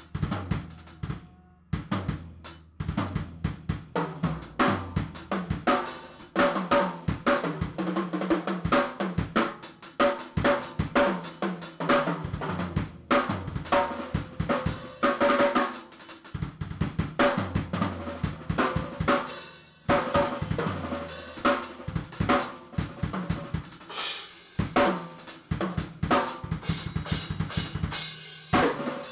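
Drum kit played in a fast, busy shed jam: rapid snare and bass-drum hits, hi-hat and cymbal crashes in dense, shifting patterns, over sustained low notes that step between pitches.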